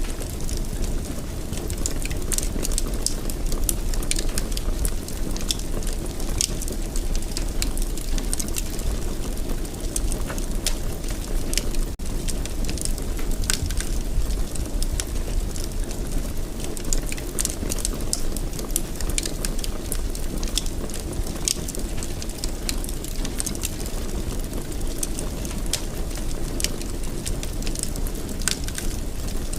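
Fireplace fire crackling, with many sharp, irregular pops over a steady low rumble.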